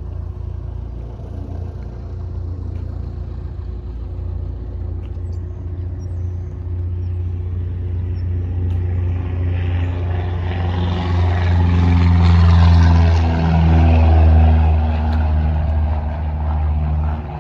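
An engine running with a steady low drone that grows louder and fuller about ten seconds in, then eases a little near the end.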